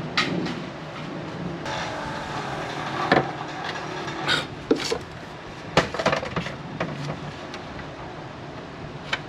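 Sheet-metal patch panel being handled and worked against the car body: scattered clanks and knocks with a stretch of scraping about two seconds in, over a steady low hum.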